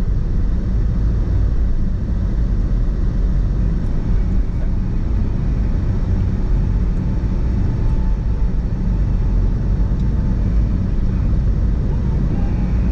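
Car driving along: a steady low rumble of road and engine noise at an even level.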